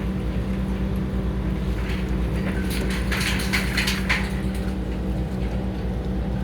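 Heavy construction machine's diesel engine running steadily with a constant low hum. Bursts of metallic scraping and clanking come about halfway through.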